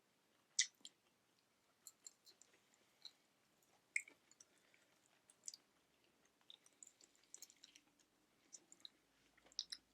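Faint chewing and eating: scattered small, irregular mouth clicks and squishy ticks of food being chewed, with no steady sound behind them.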